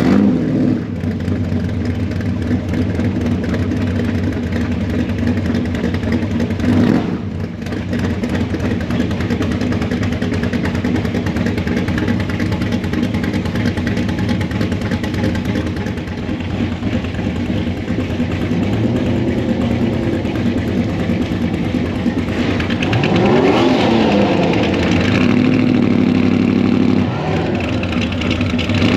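Classic car and truck engines running at low speed in slow street traffic, a steady low rumble. About two-thirds of the way through, one engine revs up and back down a couple of times.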